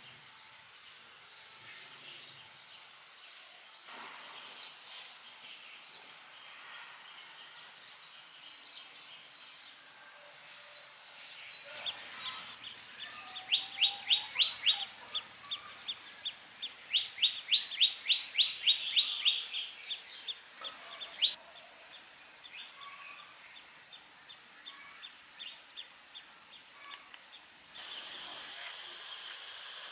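Outdoor ambience with a bird calling in two quick runs of short, falling notes, several a second, over a steady high-pitched buzz that starts about twelve seconds in and stops near the end.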